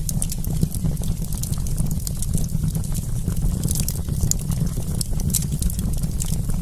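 Wood campfire crackling: many sharp, irregular pops and snaps over a steady low rumble of the burning fire.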